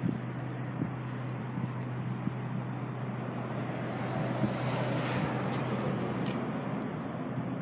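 A steady mechanical hum under even running noise, swelling slightly in the middle, as from an engine or vehicle running.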